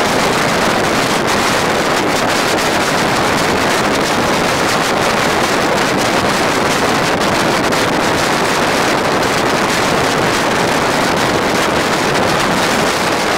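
Wind buffeting the microphone held out of a moving passenger train's window, over the steady running noise of the train.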